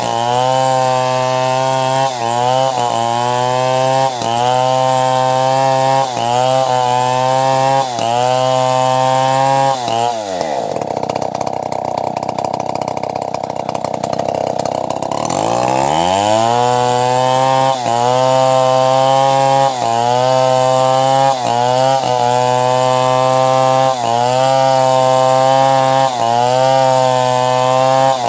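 Chainsaw engine running at high speed while ripping timber into planks, its pitch dipping briefly every second or two as the chain loads up in the cut. About a third of the way through, the engine speed drops steeply for several seconds, then climbs back to full speed.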